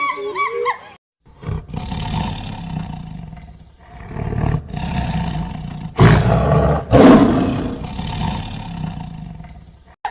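Lion roaring: after a second of bird calls, a deep rumbling roar builds in several calls, loudest twice around the middle, then tails off.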